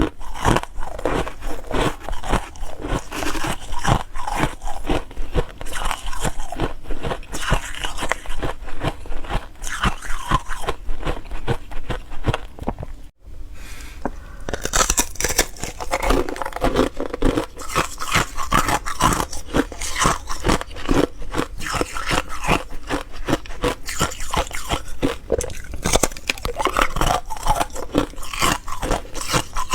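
Ice being bitten and chewed: dense, continuous crunching, with a brief break about 13 seconds in.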